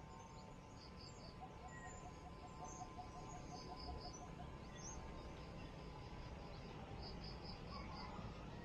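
Faint birdsong over a steady background hiss: a run of about a dozen evenly spaced low notes, about four a second, in the first half, and short high chirps in threes that recur every few seconds.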